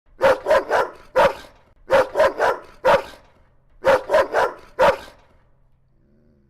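A dog barking aggressively in three quick runs of four loud barks each, with short pauses between the runs.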